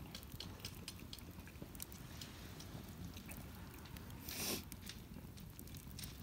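Wood campfire crackling, with scattered small pops and one louder burst about four and a half seconds in.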